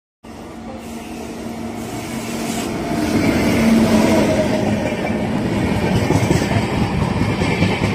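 Express train hauled by a WAP-7 electric locomotive with LHB coaches approaching and running through at speed. It grows louder until the locomotive passes about three to four seconds in, then the coaches go by in a steady loud rush.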